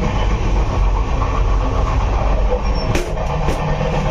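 Steady rumble and rattle of a moving passenger train heard from inside the coach, with two sharp clicks about half a second apart near the end.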